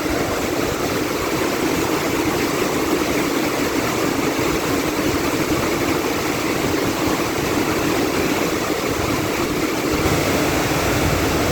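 Heavy rain pouring down, a loud, steady wash of noise.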